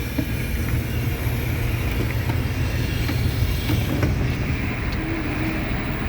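Heavy truck running: a steady low rumble with scattered small clicks and rattles.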